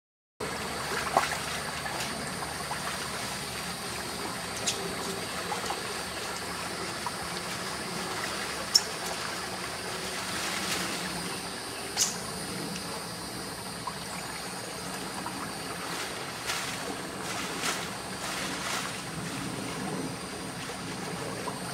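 Shallow stream water running steadily, with a few faint sharp clicks scattered through.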